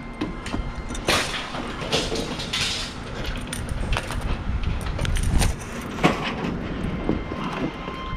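Metal scrap being handled: a string of irregular clanks, knocks and scrapes, with the sharpest bang about a second in and more around five and six seconds in.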